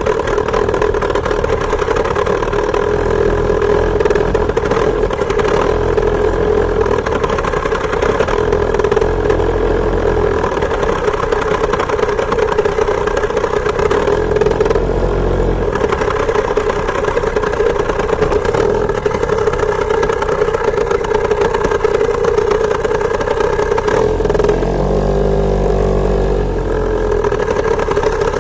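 Two-stroke chainsaw engine driving a homemade moped, running steadily at an even, high speed. Patches of low rumble come and go a few times.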